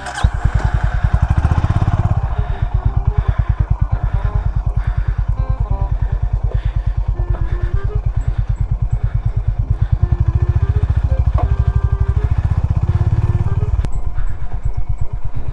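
Honda CB350 H'ness's single-cylinder engine running at low revs with a steady, even thump, swelling slightly twice.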